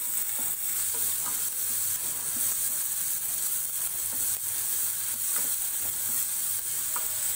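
Chopped onions, green chillies and crushed garlic and ginger sizzling in hot coconut oil in a kadai, stirred steadily with a spatula that scrapes and taps against the pan. They are being sautéed until the raw smell of the garlic cooks off.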